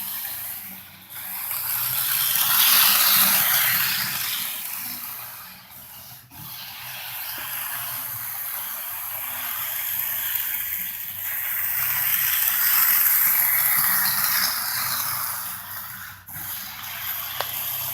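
HO scale model locomotive running around the track: its small electric motor and gears whirring with the wheels rattling on the rails, growing louder and fading twice as it comes near and goes away. The owner thinks it has sat a while and needs to run to get its grease distributed.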